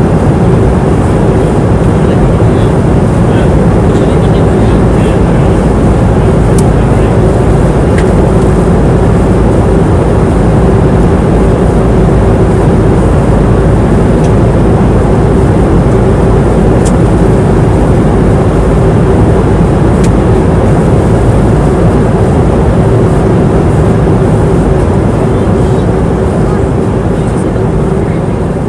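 Airliner cabin noise in flight: a steady rush of engine and airflow noise with a constant low hum running through it. It fades gradually near the end.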